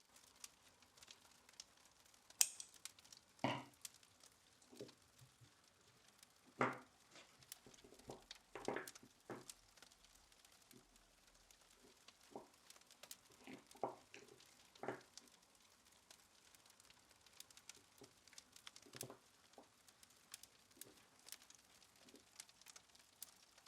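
Quiet handling sounds as beeswax candles are tied up: scattered light clicks and taps with a few brief rustles.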